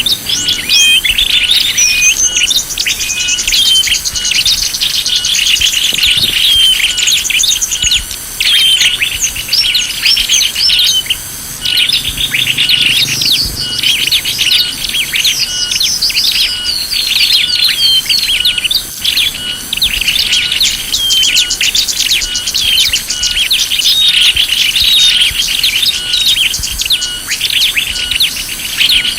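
Lure call for small birds: many small birds chirping and trilling densely and without a break, with a short high note repeating at even spacing underneath.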